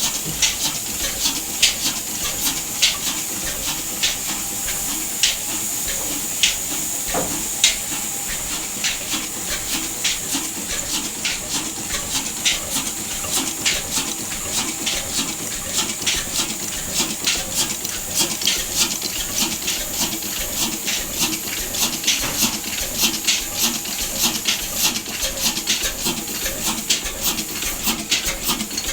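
Large diesel engine running, with a string of sharp knocks that come faster in the second half, over a steady hiss.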